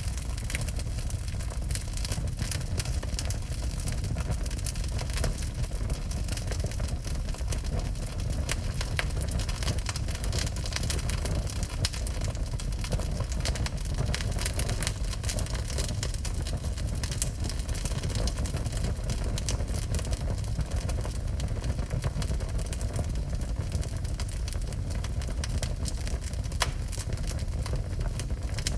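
Wood fire burning in a fireplace: steady crackling and popping over a constant low rumble.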